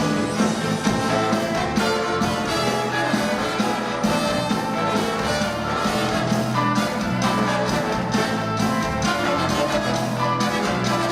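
A live band playing an instrumental passage of a pop song, with a steady beat.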